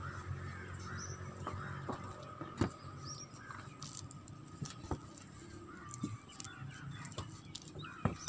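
Birds chirping in the background, with a few scattered sharp knocks and a low steady hum.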